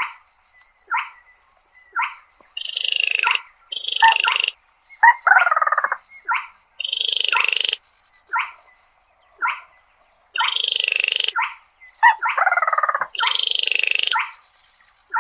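Quốc lùn crake calling over and over: rasping, rattling calls about a second long, in runs of two or three, with single short, sharp notes in the gaps between them.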